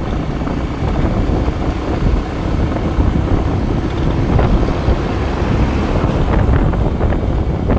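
Wind buffeting the microphone on a moving motorcycle, over steady engine and road noise.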